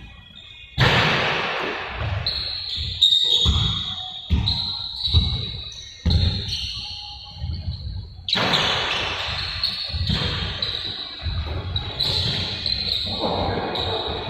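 Basketballs bouncing irregularly on a hard indoor court, heard as repeated thumps, with short high squeaks in between and the echo of a large hall.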